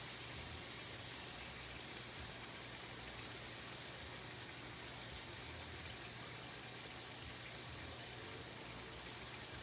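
Steady, faint hiss with a low hum underneath and no distinct events.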